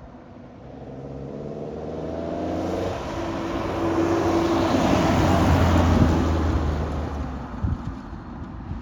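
A classic car driving past, its engine note rising as it accelerates, loudest about six seconds in and then fading away.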